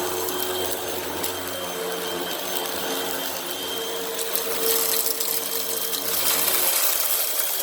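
Hoover WindTunnel High Capacity Pet upright vacuum running steadily, its motor whine over the hiss of dirt and litter being sucked up. Small ticks of debris run through it, and the hiss grows louder from about four and a half seconds in.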